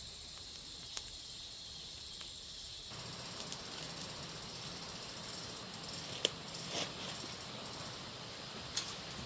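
Steady outdoor hiss with a faint high insect-like tone, which widens and grows a little louder about three seconds in. A few sharp clicks or knocks sound over it, the loudest about six seconds in and another near the end.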